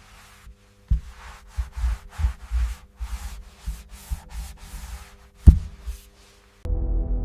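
Rough rubbing strokes on a surface, about two a second, with a few low knocks; the loudest knock comes about five and a half seconds in. Ambient music with a low drone comes in near the end.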